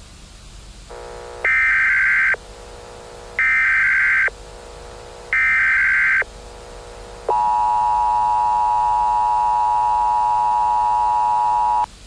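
Emergency Alert System tones: three one-second bursts of SAME header data, with a quieter low buzz between them, then the EAS two-tone attention signal, a steady harsh tone held for about four and a half seconds before it cuts off.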